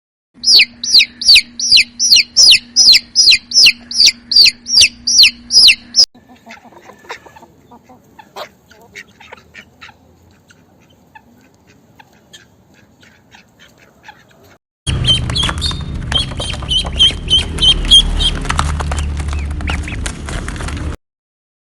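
A bird calling in a quick run of about fourteen sharp, falling notes, a little over two a second. A quiet stretch with faint ticks follows, then a louder, noisier clip with a low rumble and more repeated high bird calls.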